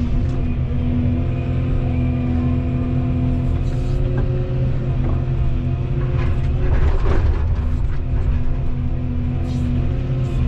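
Volvo 235EL excavator running steadily, its diesel engine and hydraulics giving a constant hum with a steady whine. About six to seven seconds in, a short burst of knocking and scraping rises over it as the machine works.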